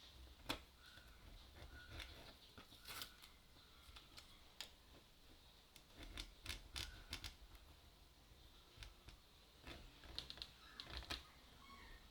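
Faint, irregular small clicks and taps, typical of small metal camera parts and tools being handled during bench repair work.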